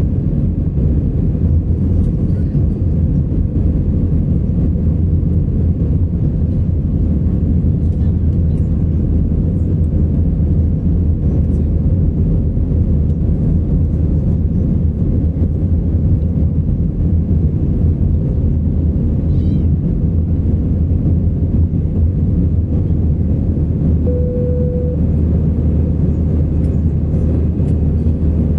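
Steady, low drone of jet engines and airflow heard inside the cabin of an Airbus A319 in flight, with a brief single tone about three-quarters of the way through.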